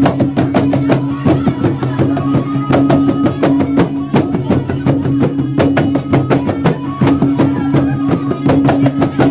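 Traditional dance music: fast, steady drumming with several sharp strikes a second over a sustained low drone.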